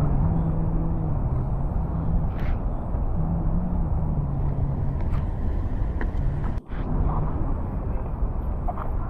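Outdoor ambience: a steady low rumbling noise with people's voices murmuring through it, cut off for an instant about two-thirds of the way through.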